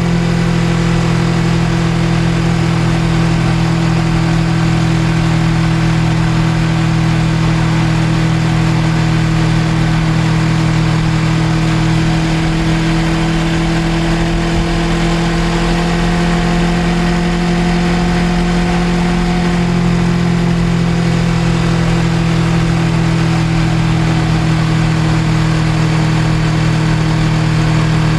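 Suzuki GSX250R's parallel-twin engine running on board at a steady cruise, its pitch holding nearly even, over a constant rush of riding noise.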